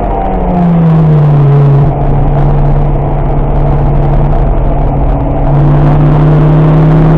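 Car engine heard from inside the cabin during a track lap. Its pitch falls over the first two seconds as the car slows into a bend, holds steady through the turn, then picks up and rises slowly again about five and a half seconds in as it accelerates out.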